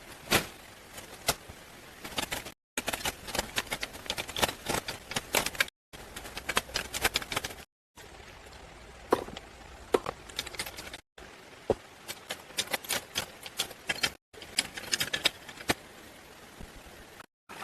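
Rapid, irregular light clicks and knocks of hand work with building materials, in short segments broken by sudden brief silences.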